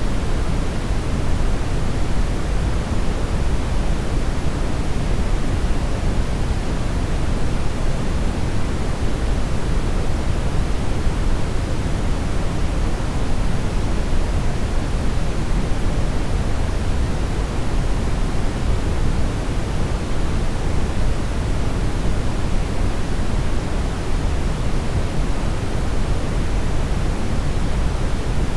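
Brown noise: a steady, even hiss weighted toward the low end, with no changes or events.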